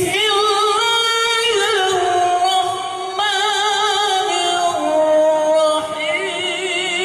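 A Qur'an reciter chanting one long, melismatic phrase in the melodic tilawah style, the voice held with a wavering vibrato and ornamental turns. The phrase steps down in pitch from start to end.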